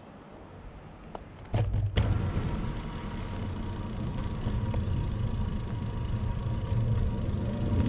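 Wind and riding noise rumbling on a bicycle-mounted camera's microphone. It comes in suddenly about one and a half seconds in with a couple of knocks, then runs steady and slowly grows louder; faint birdsong is heard before it.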